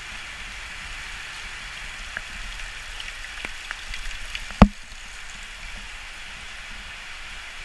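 Heavy tropical rain falling steadily, a dense even hiss. Between about two and four and a half seconds in come several sharp taps, then one loud knock.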